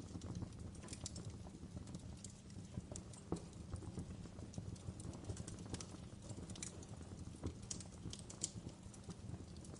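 Wood fire burning in a fireplace: a steady low rumble of the flames with frequent irregular crackles and sharp pops, a few louder ones scattered through.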